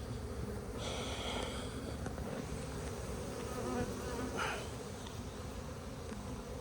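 A mass of honeybees buzzing in the air around opened hives, a steady hum from strong, crowded colonies.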